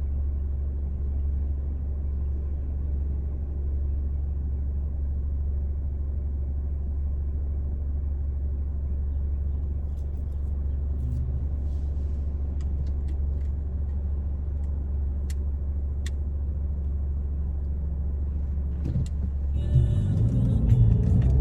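Steady low rumble of a car's road and engine noise heard from inside the cabin while driving, with a few faint sharp clicks in the second half. Music comes in near the end.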